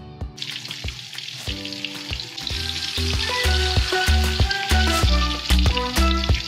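Egg-and-flour-coated chicken patties frying in oil: a sizzle starts about half a second in and keeps on. Background music plays alongside, with a steady bass beat coming in about halfway through.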